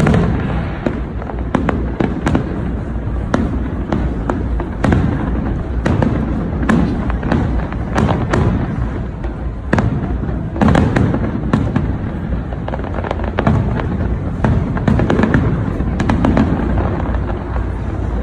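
Fireworks display: aerial shells bursting one after another, with many sharp bangs and crackles over a constant low din.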